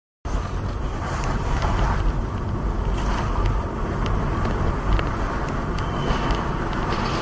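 Steady road and engine noise of a moving car, heard from inside the cabin through a dashcam microphone. It cuts in abruptly just after the start, with a few faint clicks over it.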